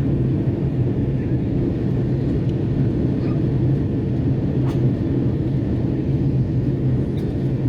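Steady low rumble inside the cabin of an Airbus A330-300 airliner: engine and airflow noise.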